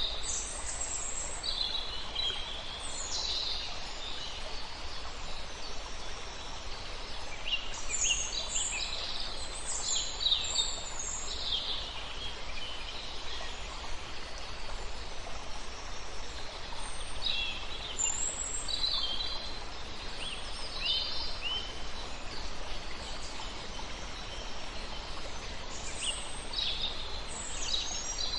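Several songbirds singing in bursts of quick high chirps and trills, over a steady rush of river water.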